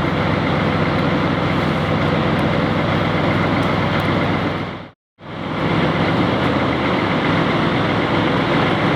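Steady car engine and traffic noise from cars driving slowly out of an event exit. It breaks off into a short silence about five seconds in, then carries on at the same level.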